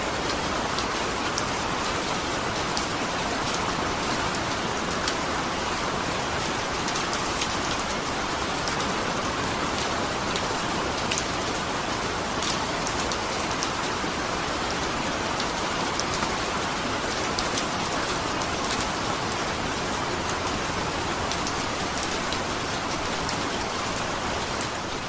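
Steady rainfall with scattered sharp drip ticks.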